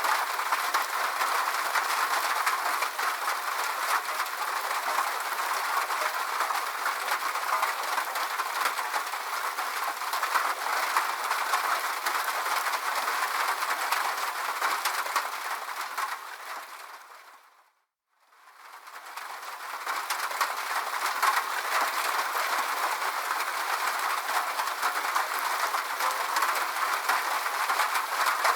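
Steady rain falling, an even hiss with a crackle of drops. About two-thirds of the way through it fades out to silence and fades straight back in.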